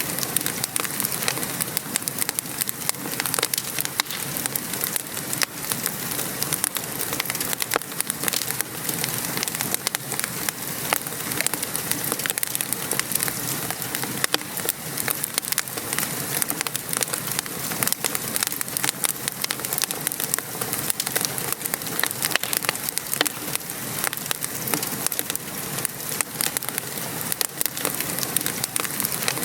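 Steady rain pattering together with a wood fire crackling, its many small sharp pops scattered all through.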